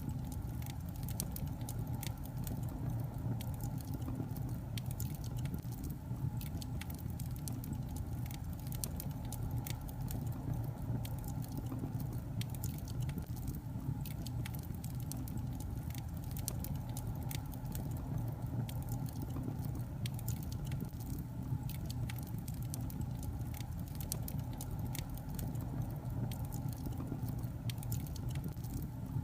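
Wood fire burning in a fireplace: a steady low rumble of flames with frequent small sharp crackles and pops from the logs.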